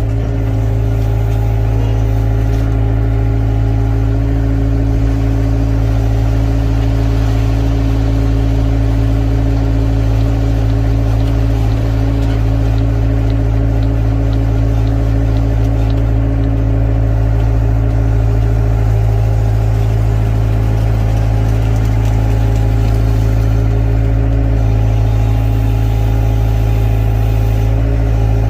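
Excavator diesel engine running steadily at a constant speed, a loud, even hum with no clear knocks or impacts.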